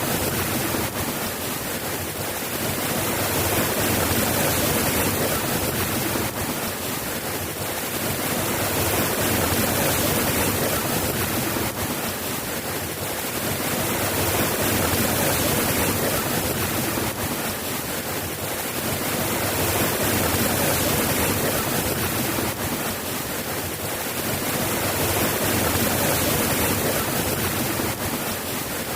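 Steady rain falling, an even hiss that swells and eases gently every few seconds.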